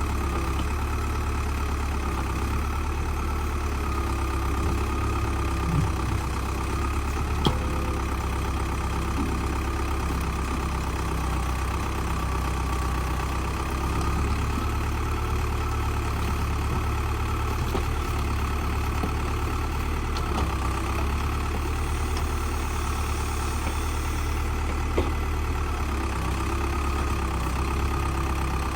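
Old tractor backhoe's engine running steadily at an even speed, with a couple of brief knocks.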